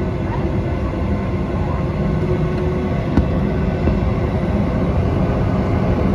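Steady cabin noise inside a Boeing 737-800, its CFM56 jet engines and airframe heard through the fuselage, slowly getting louder, with a single faint click about three seconds in.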